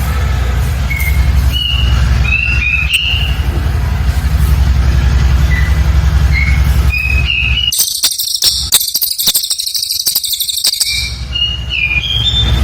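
Cililin bird song: short whistled chirps, then a dense, very high, rapid rattle of notes for about three seconds, the 'shooting' burst, before the chirps resume. A steady low hum runs under the chirps.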